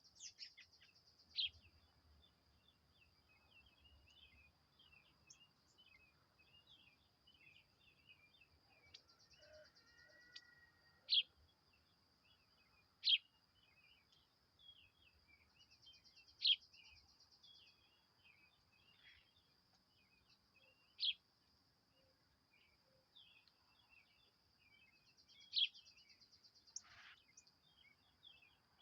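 Small birds chirping, with a sharp high call every two to five seconds and many softer twitters in between, over a steady high-pitched buzz.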